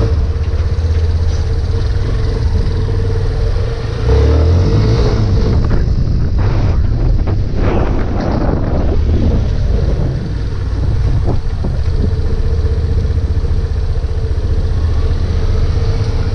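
Yamaha Fazer 250's single-cylinder four-stroke engine running on a test run. It pulls harder about four seconds in and eases off briefly around ten seconds. The engine is freshly serviced, with its valves just adjusted.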